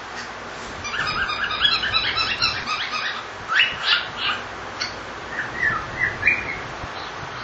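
Pet cockatiel whistling: a quick run of short high notes, then a few louder calls and some short rising chirps.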